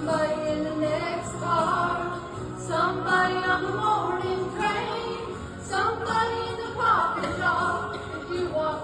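A woman singing a country song with musical accompaniment, her voice gliding and holding notes.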